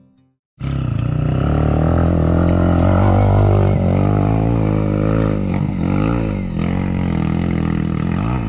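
Off-road motorcycle engine revving, its pitch rising and falling repeatedly. It starts suddenly about half a second in.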